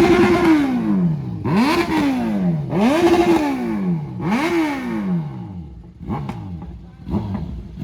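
Vehicle engine revved hard four times in a row, each rev climbing quickly, holding briefly at the top and dying away slowly; a few faint ticks follow the last one.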